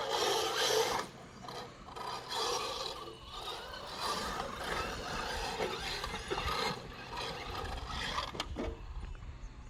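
Electric RC monster truck driving over the woodland ground: drivetrain whir and tyres scrabbling through dirt and brush, coming in irregular surges as the throttle is worked.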